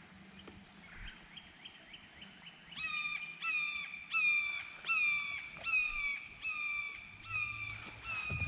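A bird calling a long series of sharp, down-slurred whistled notes, about two a second, starting faint and quick then growing louder about three seconds in.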